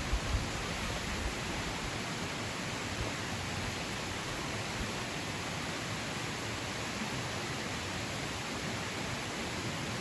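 Steady rushing noise of flowing water, even and unchanging, with a few low thumps in the first second or so.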